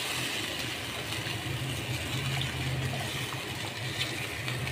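Chicken korma cooking in a pot on a gas stove while it is stirred with a spatula, with a steady low hum underneath and a few light ticks from the spatula.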